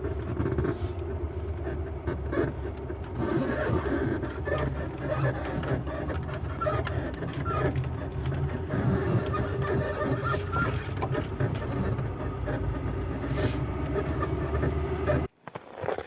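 VAZ classic (Lada) car moving over a steady low rumble, with wavering squeaks from the front suspension: the squeak comes from a worn lower ball joint. The sound cuts off abruptly about a second before the end.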